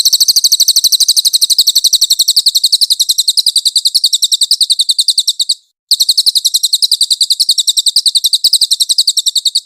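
Cililin songbird singing its rapid, loud 'nembak' song: a fast, high-pitched run of sharp repeated notes, more than ten a second, with a brief break a little past halfway.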